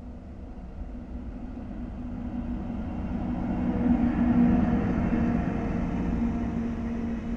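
JR Freight EF64 1000-series electric locomotive hauling a container freight train passes by, growing louder to its loudest about four seconds in as the locomotive goes past, then the rumble of the container wagons rolling by.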